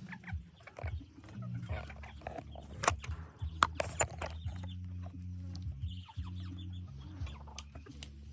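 Hybrid red junglefowl clucking, mixed with scattered sharp clicks and knocks, the loudest about three and four seconds in, over a steady low hum.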